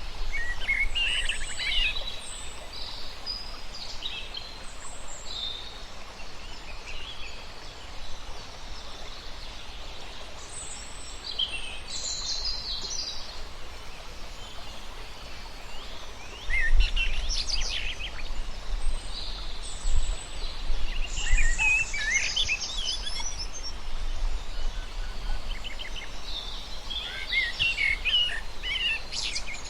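Birds chirping and calling in scattered bursts of quick, high notes every few seconds, over a steady low rumble that grows stronger a little past halfway.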